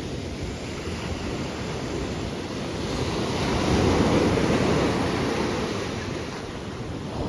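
Sea surf washing onto a beach, a steady rush that swells louder from about three seconds in and then eases off, with wind blowing across the microphone.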